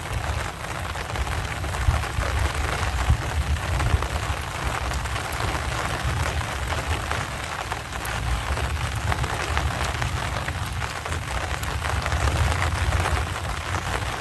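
Rain from a rainstorm falling steadily, a dense hiss with scattered drop ticks over a constant low rumble.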